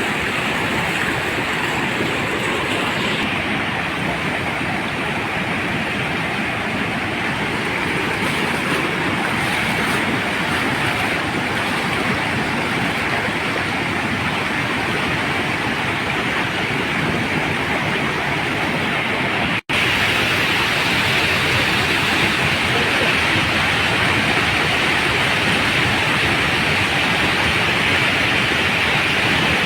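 Steady rush of fast-flowing floodwater, an even roar that drops out for an instant about two-thirds of the way through.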